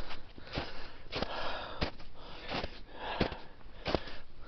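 A hiker's footsteps on a steep trail, about one and a half steps a second, with hard, heavy breathing between them from the uphill climb.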